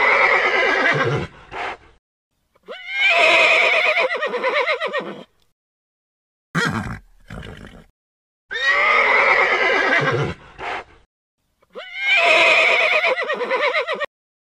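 Horse whinnying: four long neighs of two to three seconds each, with silent gaps between, their pitch quavering and falling. A shorter, rougher call comes about seven seconds in.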